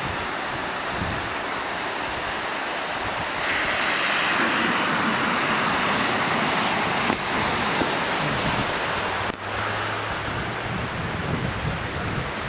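Floodwater running across a road, a steady rushing hiss with wind on the microphone; it grows louder a few seconds in and drops back suddenly after about nine seconds.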